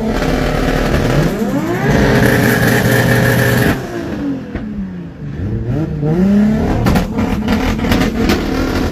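A tuned car engine revved hard. It climbs and holds at high revs for about two seconds, drops, then revs up and falls again, with sharp crackling pops near the end.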